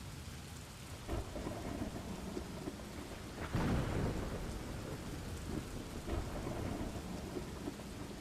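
Steady rain with rumbling thunder, and a louder roll of thunder about three and a half seconds in.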